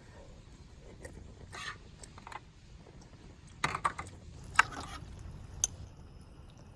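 Scattered light clicks and short rattles of small objects being handled, a few sharper knocks in the second half.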